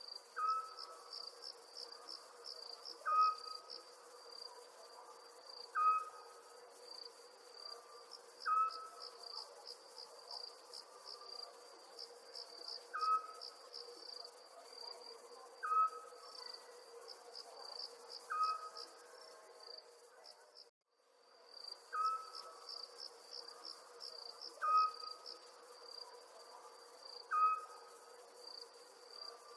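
Night chorus of crickets chirping in a steady, pulsing high trill. Over it, a short, clear call repeats about every three seconds and is the loudest sound. The whole sound cuts out for a moment about two-thirds of the way through.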